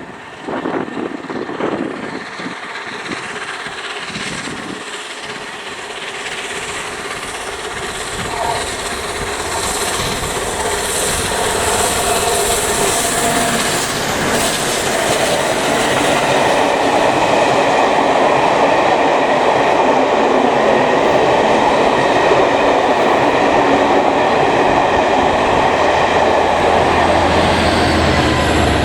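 Passenger train passing close by, its wheels clattering over the rail joints, growing steadily louder. A low hum joins in near the end.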